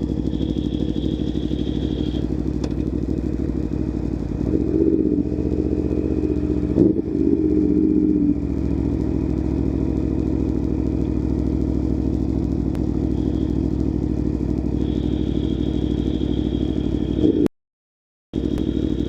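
Aprilia Tuono V4 1100 Factory's V4 engine running under way, picked up from inside the rider's helmet. The note swells louder for a few seconds around the middle, then settles back to a steady run. Near the end the sound cuts out completely for under a second.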